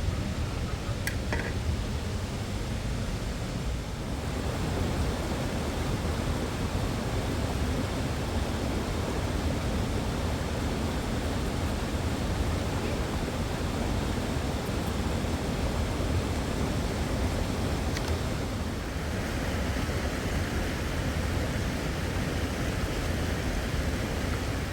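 Fast-flowing river water rushing steadily, a constant noise without pauses, with a faint click or two.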